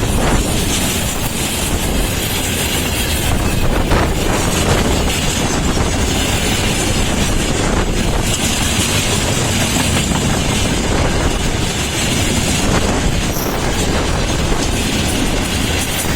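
Freight train hauled by a VL10 electric locomotive passing at speed, with steady, loud rolling noise of wheels on the track.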